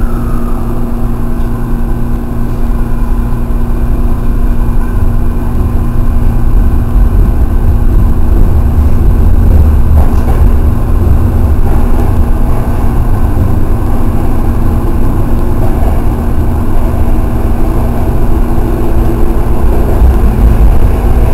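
Sanyo 5000 series electric train running through a subway tunnel, heard from inside the car: a loud, steady low rumble of wheels and tunnel noise with a constant hum underneath, growing louder a few seconds in.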